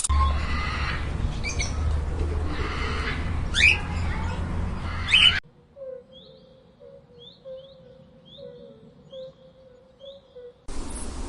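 Bird calls: first a few sharp sweeping squawks over a rumbling, windy background, then, after an abrupt cut, a bird's short high chirps repeated about every two-thirds of a second.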